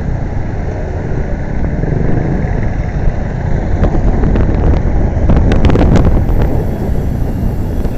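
Wind buffeting the microphone and road noise from a moving motorcycle, a dense steady rumble that swells about five seconds in, with a few sharp ticks around then.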